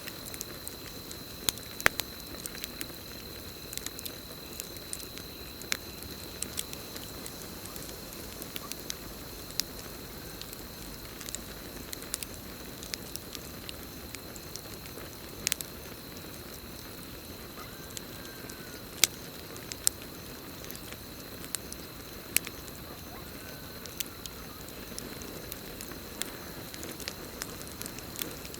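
Campfire burning: a soft steady hiss broken by irregular sharp crackles and pops, a few much louder than the rest. A steady high-pitched cricket chorus runs behind it.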